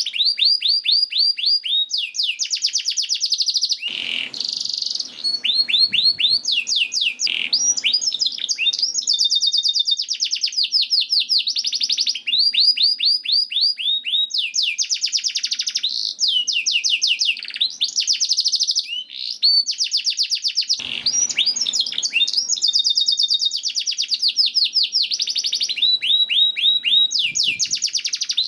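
Domestic canary singing continuously: long rapid trills of repeated high chirps, phrase after phrase, with a few short harsher, raspier phrases mixed in.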